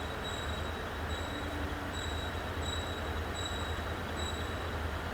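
Steady low hum of running machinery in a locomotive shed, with a short high-pitched beep repeating about every three-quarters of a second.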